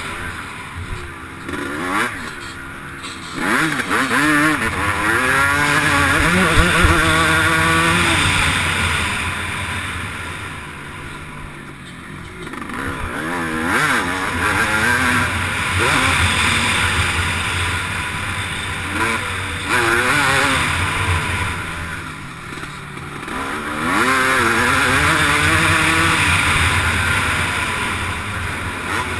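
MX1 motocross bike engine at race pace, revving up and easing off repeatedly, its pitch climbing through the gears and falling away as the throttle is shut. The throttle is shut three times, near the start, in the middle and near the end, over a constant rushing noise.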